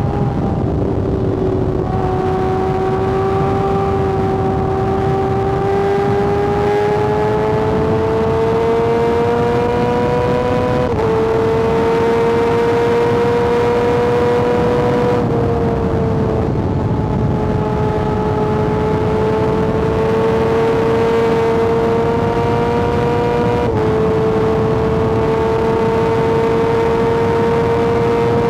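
Kawasaki ZX-6R sport bike's inline-four engine running at steady, fairly high revs under way, with rushing wind noise. The pitch climbs slowly and then shifts suddenly three times, about eleven, fifteen and twenty-four seconds in, as at gear changes.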